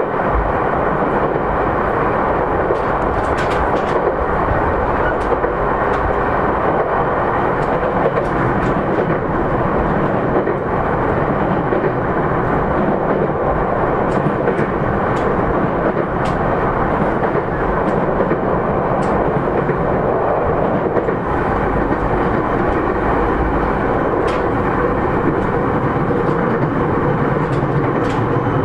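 Running sound of a JR East E231-3000 series electric train heard from inside the car: a steady rumble of wheels on rail at speed, with a few faint sharp clicks scattered through it.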